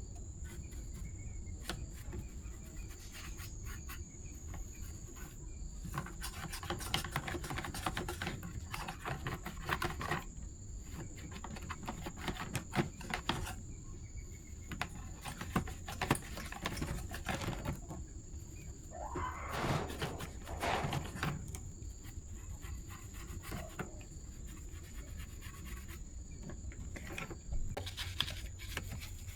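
Scattered clicks, taps and scrapes of hand repair work on small parts, with a longer scraping or rubbing sound about two-thirds of the way in. A steady high-pitched insect drone and a low hum run underneath.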